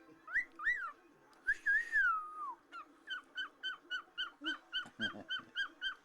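Caged pet bird whistling: two quick rising-and-falling whistles, then one long whistle gliding down, then a quick run of short repeated whistle notes, about three a second.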